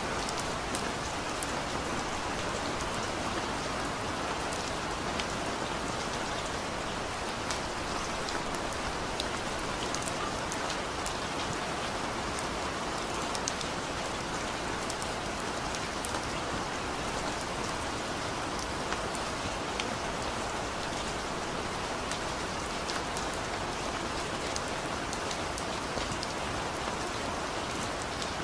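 Steady rain falling on a surface: an even hiss scattered with sharp little drop ticks.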